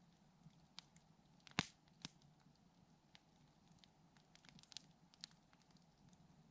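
Campfire crackling quietly: scattered small pops and ticks from the burning wood, with one sharper pop about a second and a half in and another shortly after.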